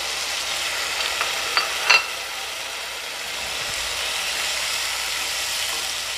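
Tomato paste frying in hot oil in a nonstick pan, a steady sizzle as it is stirred with a spatula, with a few sharp clicks of the spatula on the pan between one and two seconds in.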